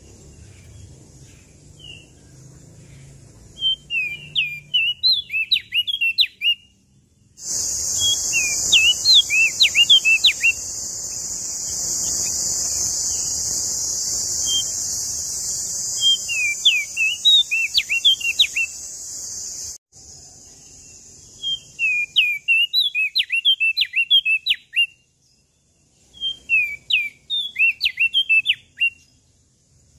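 Crested dark-eye (opior jambul) singing: about six short, fast phrases of sharp, high chirping notes, each about two seconds long with pauses between. From about a quarter of the way in to about two-thirds through, a steady high hiss plays under the song, starting and stopping abruptly.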